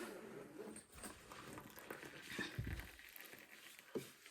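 Faint rustling and handling noises, with a soft low thump about two and a half seconds in and a small knock near the end.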